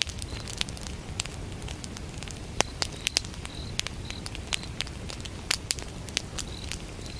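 A wood fire burning: sharp crackles and pops from the burning logs over a low steady rumble, with a few louder pops. Crickets chirp throughout in short, high, evenly repeated chirps.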